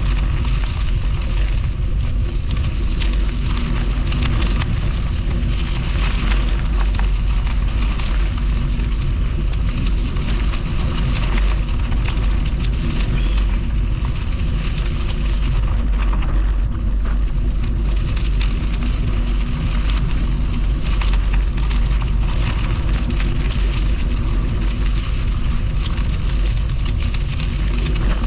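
Steady wind buffeting the microphone of a camera on a moving bicycle, a heavy low rumble, with a crackly rolling noise from the ride over the path.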